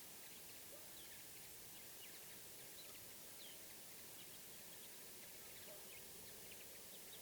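Faint birdsong: many short, high chirps from small birds scattered throughout, over a quiet outdoor hiss.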